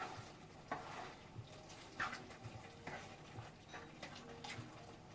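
Faint, irregular knocks and clicks of kitchen utensils, about one a second.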